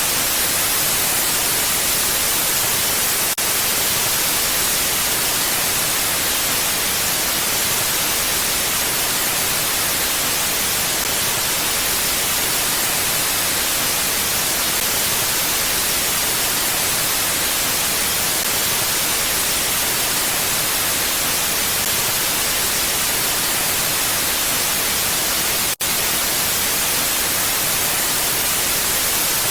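Mountain wind as a steady, even hiss with no gusts, dropping out for an instant about three seconds in and again, more deeply, near the end.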